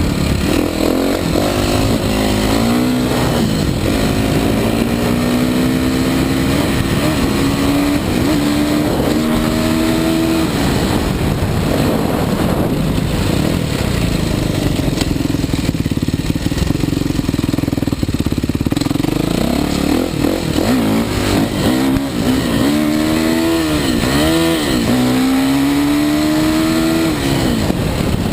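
Kawasaki KX450 motocross bike's four-stroke single-cylinder engine being ridden hard. It climbs in pitch in steps through the gears over the first ten seconds and runs steadier in the middle. Near the end it is blipped up and down several times, then makes a last climb and drops off.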